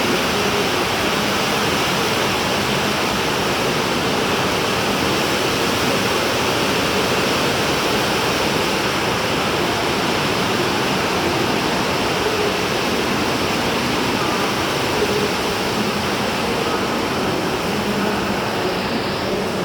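Steady, even din of a busy railway station, a continuous rushing noise with no distinct events.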